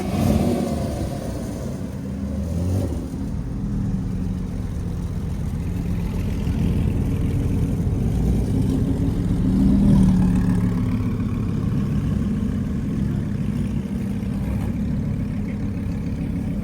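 Audi R8 sports-car engine revving as it pulls away. The rev falls off in pitch at the start, then the engine runs on with a steady low rumble and swells again about ten seconds in.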